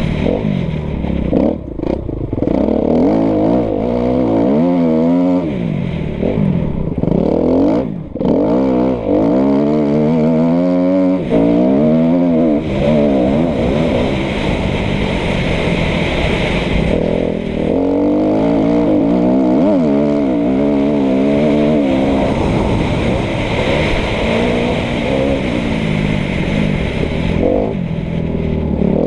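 Kawasaki KX250F motocross bike's single-cylinder four-stroke engine being ridden hard, its pitch climbing and dropping over and over as the throttle opens and shuts. The throttle briefly closes about two seconds in and again about eight seconds in.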